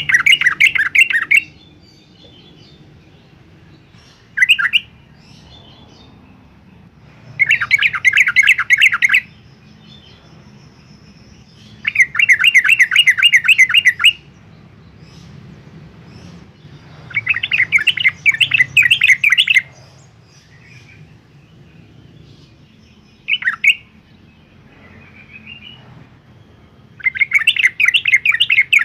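Yellow-vented bulbul singing: five bursts of rapid, bubbling notes, each about two seconds long and a few seconds apart, with two short single calls between them.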